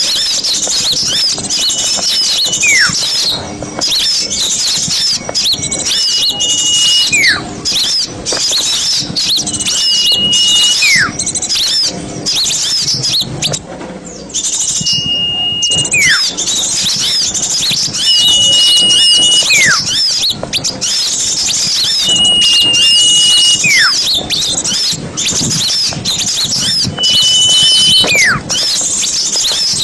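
Many small birds chattering and chirping busily in a dense, noisy chorus. Over it, about every four seconds, a whistle holds a high note for about a second and then slides sharply down.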